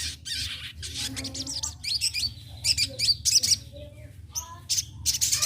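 A young sogon, a sunbird, singing a fast, varied twittering song of short high chirps and quick sweeping notes.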